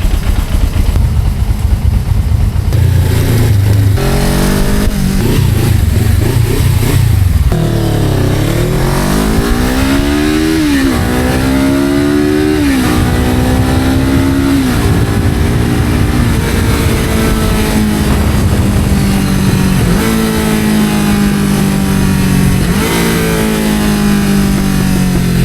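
Suzuki GS500F's parallel-twin engine through a GPR aftermarket exhaust. It runs with a low rumble at first. About eight seconds in it pulls away, its pitch climbing and dropping back several times as it shifts up through the gears, then it settles to a steadier note.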